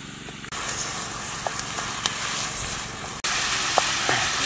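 Ant eggs sizzling as they fry in a pan over an open wood fire, a steady hiss with scattered small pops and crackles. It steps louder about half a second in and again about three seconds in.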